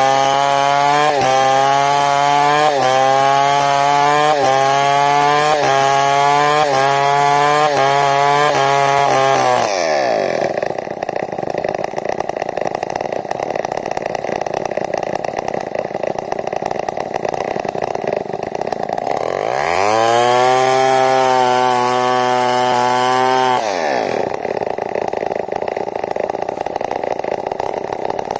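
Large 070 chainsaw running at full throttle as it rips along a log to mill a beam. For about ten seconds its note wavers rhythmically under the load of the cut. After that the engine note shifts back and forth a few times as the load on the chain changes.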